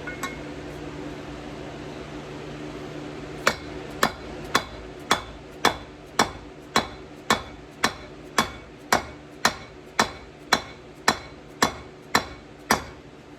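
A hammer repeatedly tapping a bearing and seal driver to press a new tail shaft bushing into a Ford toploader 4-speed's tailshaft housing. There are about eighteen even, sharp metallic strikes, roughly two a second, starting a few seconds in. The bushing is going in nearly to its seat.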